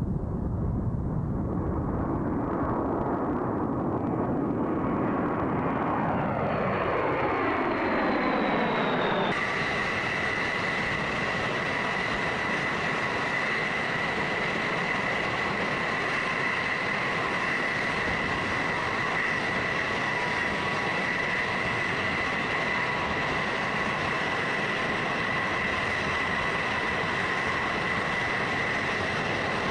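Jet aircraft passing, its engine pitch falling as it goes by. About nine seconds in, an abrupt cut to steady jet engine noise with a high whine.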